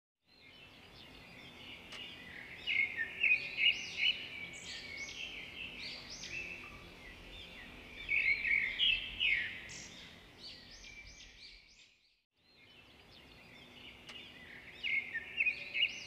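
Birds chirping and twittering in short high bursts over a faint steady hiss. The sound breaks off for a moment about twelve seconds in, then starts again.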